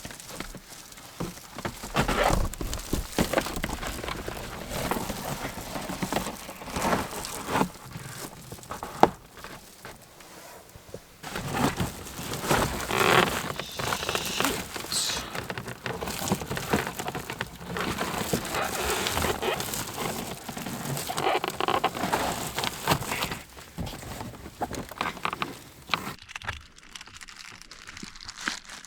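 Reflectix foil-bubble insulation panels being handled and pressed into truck windows, crinkling and rustling in irregular bursts with scattered clicks.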